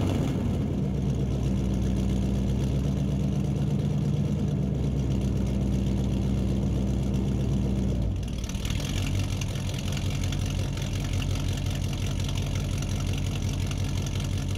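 Car engine idling steadily; about eight seconds in its note changes and runs on slightly quieter.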